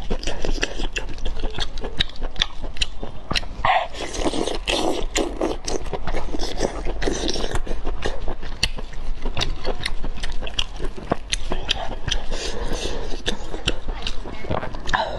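Close-miked eating: a person chewing and smacking their lips, with many quick wet clicks throughout.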